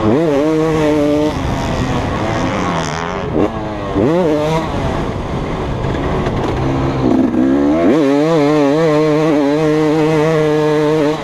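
2015 KTM 250 SX single-cylinder two-stroke motocross engine being ridden, the throttle opened hard several times so the revs climb sharply. From about eight seconds in it holds steady at high revs.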